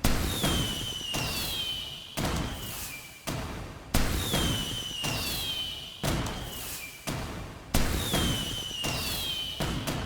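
Fireworks show: aerial shells bursting with sharp booms every second or two, several followed by a whistle that falls in pitch.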